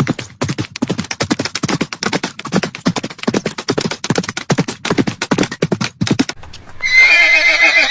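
Horse hooves beating quickly and steadily, then a loud quavering whinny about seven seconds in.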